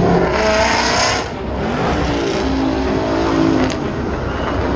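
Car accelerating hard past, engine revving loudly, with a loud rush of exhaust noise about a second long near the start and the engine note rising and falling in the middle.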